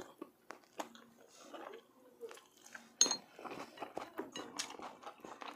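Tableware clinking and small clicks as someone eats at a table, with one sharper ringing clink about three seconds in.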